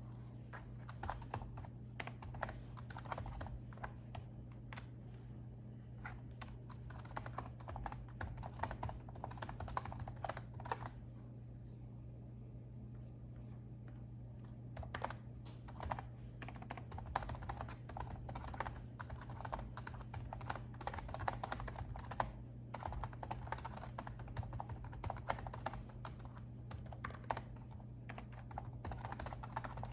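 Typing on a laptop keyboard: runs of quick key clicks broken by short pauses, with a longer pause about twelve seconds in. A steady low hum runs underneath.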